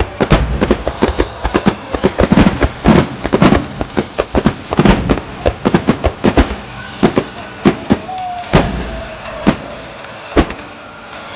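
Aerial fireworks bursting in a rapid barrage of sharp bangs and booms, thinning out to single booms about a second apart near the end.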